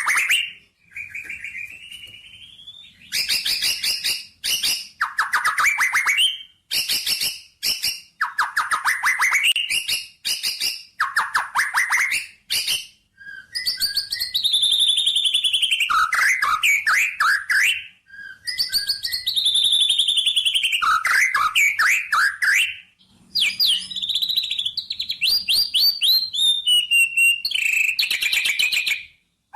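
Songbird singing: fast trills of chirps and falling whistled phrases, with short pauses between phrases; one long falling phrase comes twice, about five seconds apart, in the middle.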